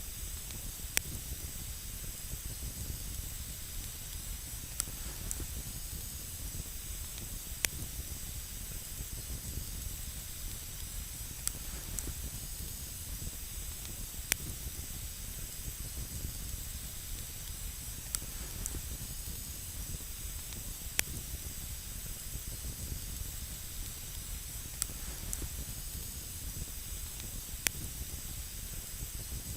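Campfire on snow burning with a steady hiss, and sharp crackles and pops of burning wood at irregular intervals, about a dozen of them.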